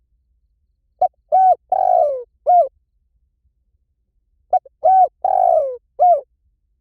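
Spotted dove cooing: two phrases, each a short note followed by a few coos, one long and falling in pitch, with a pause of about two seconds between them.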